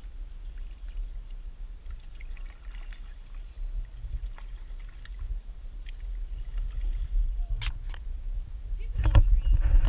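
Kayak paddling: faint paddle splashes and drips with scattered small clicks, over a steady low rumble, and a couple of sharp knocks near the end.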